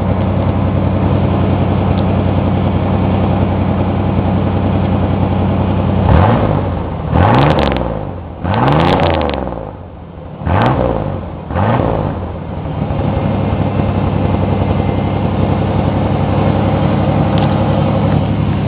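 Straight-piped 1988 Chevrolet S-10 Blazer 4.3L V6 idling, then revved in about five quick blips that rise and fall about six seconds in, before settling back to a steady idle. The exhaust has a leak, which the owner acknowledges.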